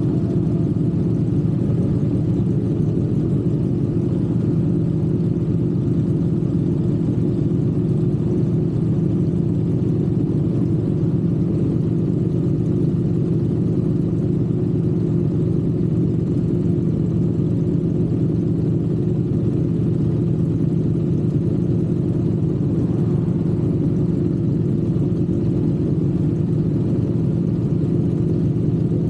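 Triumph parallel-twin motorcycle engine running at a steady speed while cruising, a constant low engine note without revving.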